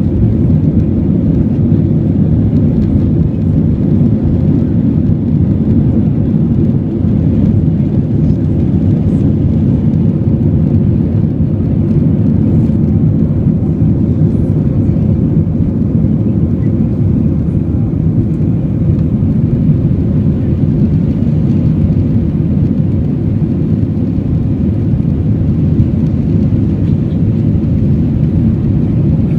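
Steady rumble of an Airbus A320's engines and rushing air, heard from inside the cabin near the rear of the plane.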